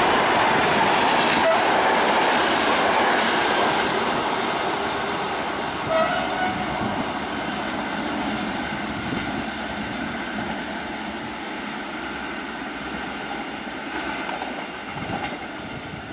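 Diesel-hauled Intercity train, an FS D.445 locomotive and its coaches, passing close by. The engine and the wheels on the rails are loud at first, then fade steadily as the train runs away down the line. A short high tone comes about six seconds in.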